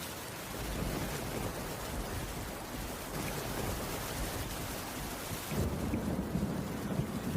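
Heavy rain falling steadily on a wooden cabin roof. A low rumble swells about five and a half seconds in.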